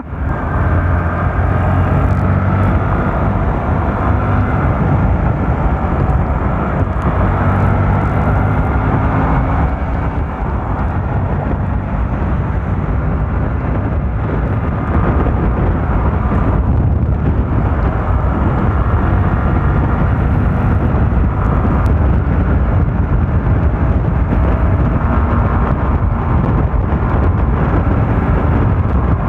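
Riding sound from a Bajaj Rouser NS160 motorcycle: steady wind rush on the microphone over the single-cylinder engine, whose note rises and falls with the throttle.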